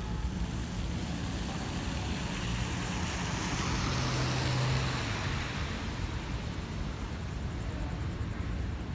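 A vehicle passing on a wet road: tyre hiss swells over a few seconds with a low engine hum, peaks a little before the middle, then fades away over steady traffic noise.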